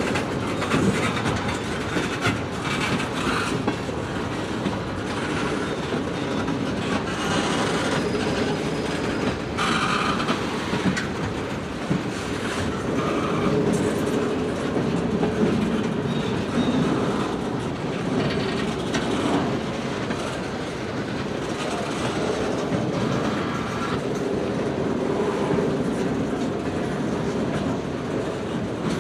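Freight train cars rolling past, their wheels clicking over the rail joints in a steady continuous run.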